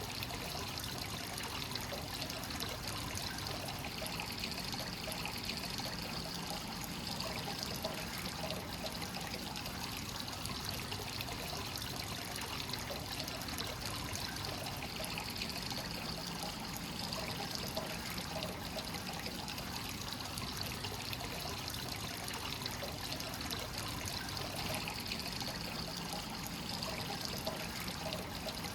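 Free-flowing hot spring water pouring steadily into a bath, trickling and splashing, with a gentle swell in the splashing about every ten seconds.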